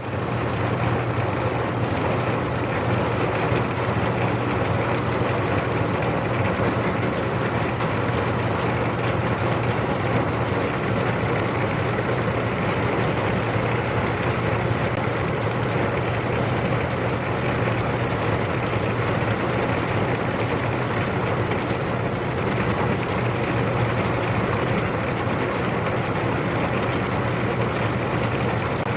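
Metal lathe running steadily with an even, low motor hum.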